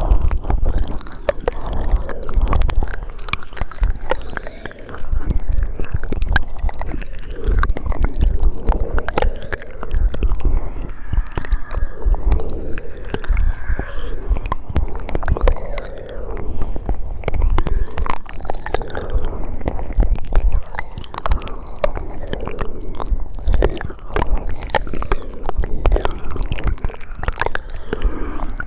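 Close-miked ASMR mouth sounds: a continuous run of quick clicks and smacks.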